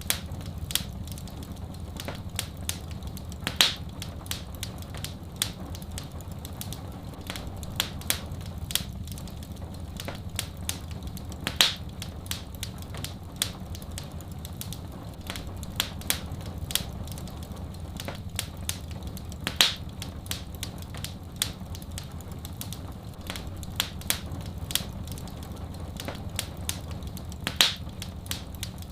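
Fireplace wood fire crackling: a dense run of small snaps and pops over a low steady rumble, with a louder pop about every eight seconds.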